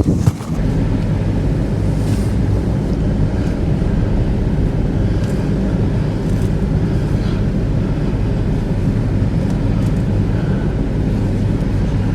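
Vehicle engine running at a steady speed, low-pitched and even throughout, with wind noise on the microphone.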